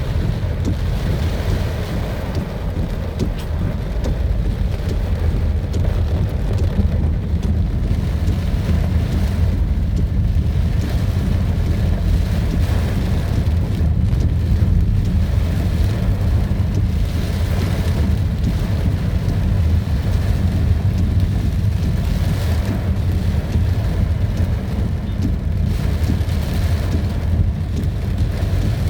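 Heavy rain falling steadily over a continuous low rumble.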